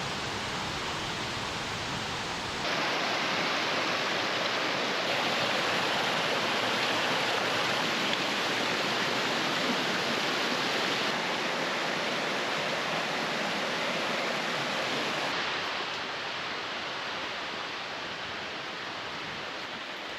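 Water rushing over rocks in a mountain creek's cascades, a steady hiss. It gets louder about three seconds in and softer again about three-quarters of the way through.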